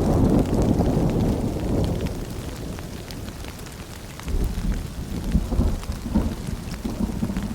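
Steady rain with low rolling thunder: one rumble dies away over the first few seconds and another builds about four seconds in. Scattered drip ticks run through it.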